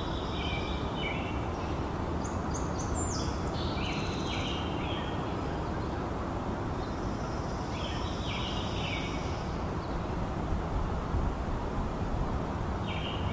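A songbird singing short phrases of several quick notes, repeating every four to five seconds, over a steady rushing background noise.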